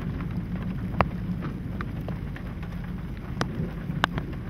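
Scattered raindrops striking close to the microphone in a handful of sharp, irregular taps over a steady low rumble of wind from the storm.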